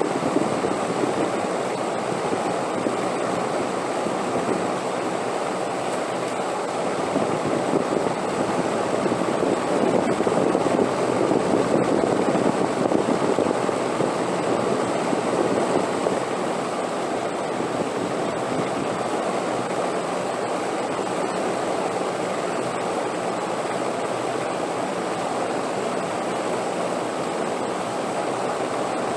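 Steady wind blowing, a continuous rushing noise that swells for several seconds in the middle and then settles back.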